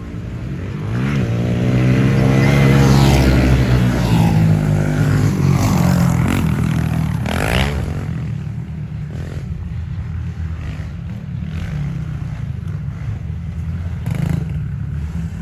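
Small single-cylinder four-stroke 110cc pit bike engines revving up and down as the bikes race around a dirt track, loudest when they pass close during the first half, then fainter and steadier as they ride farther off.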